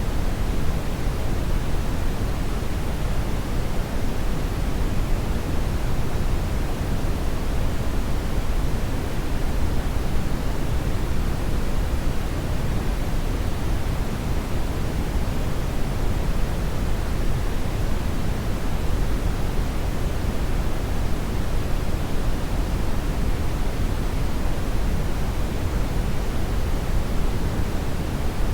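Hair dryer running steadily on one setting: an even, unbroken rush of air, heaviest in the low end, with no changes.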